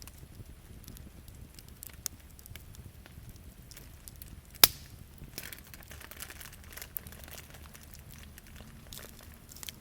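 Wood fire crackling with scattered sharp pops; one much louder pop about halfway through.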